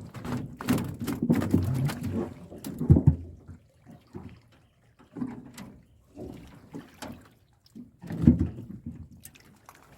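Water splashing and dripping with irregular knocks and bumps as a fish trap full of fish is handled at the side of a small boat, with two louder thumps about three seconds and eight seconds in.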